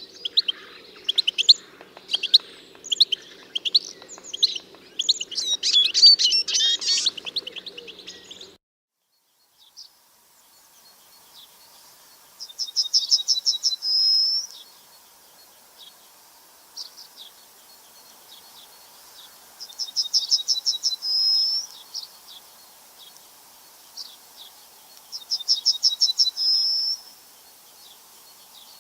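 Songbirds chirping busily, then after a short break a single bird's song repeated three times, each a fast trill of high notes ending in a slurred note, about six seconds apart.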